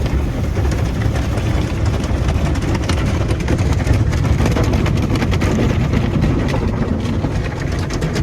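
Automatic car wash running on a vehicle: a steady low rumble with a rapid patter and clatter across it, busiest from about three seconds in.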